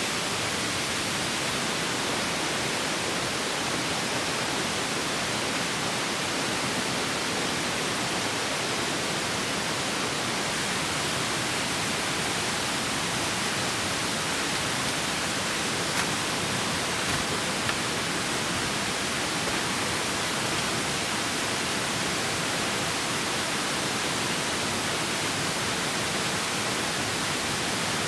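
Steady rushing of a clear stream flowing over rocks, an even wash of water noise with a couple of faint clicks a little past halfway.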